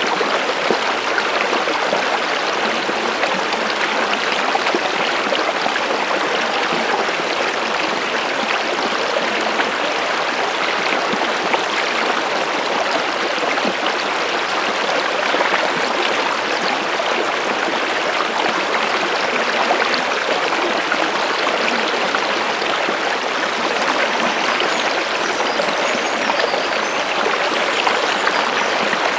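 A stream of flowing water running and babbling steadily and evenly.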